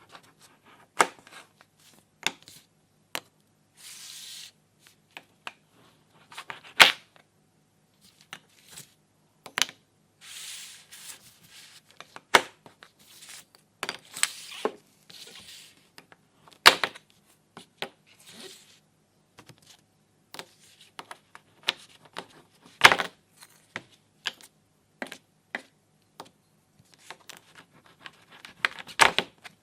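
Plastic toy pieces being handled: irregular sharp clicks and knocks, with a few short ripping or rustling noises in between.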